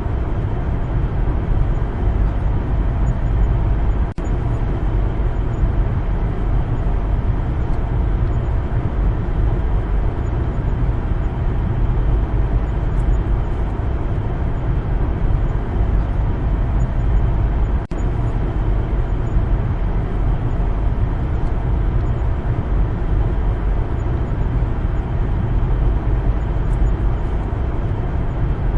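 Steady low rumble of a car driving on a road, with no change in pace, broken twice by a split-second dropout.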